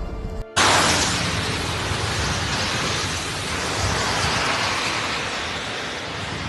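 Heavy rainstorm: a loud, steady hiss of pouring rain and wind that cuts in abruptly about half a second in and eases slightly.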